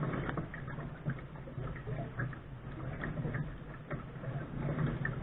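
Lark sailing dinghy under way: a steady wash of water moving along the hull, with scattered light ticks and knocks.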